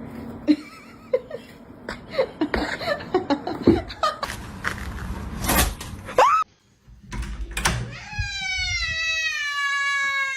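A run of scattered knocks and clatter, then, about eight seconds in, a cat's long drawn-out meow that slowly falls in pitch.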